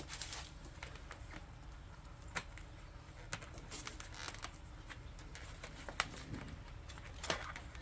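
Scattered sharp clicks and snaps every second or two over faint rustling: zip ties being cut off e-bike packing and the packaging handled.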